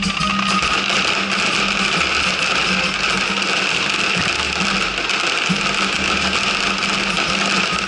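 Dense, continuous crackling of firework crackle effects, a rapid fizz of tiny pops, over the display's music soundtrack with a pulsing bass line.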